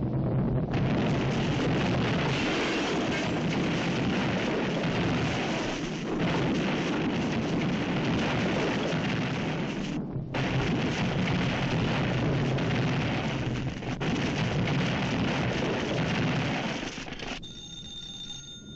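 Old cartoon soundtrack of continuous explosion and crash noise mixed with orchestral music: the comet falling on the city. It breaks off briefly three times and drops away near the end, leaving a few steady tones.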